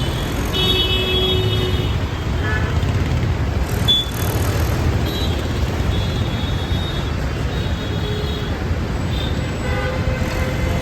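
Dense road traffic: a steady rumble of engines and tyres with vehicle horns honking again and again, some overlapping, and a brief sharp click about four seconds in.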